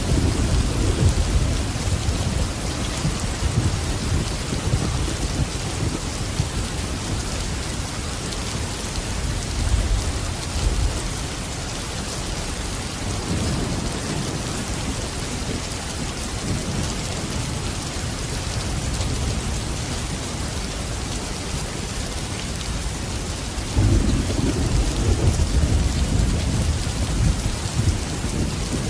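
Steady heavy rain with rolling thunder: deep rumbles swell at the start, again about ten seconds in, and once more near the end.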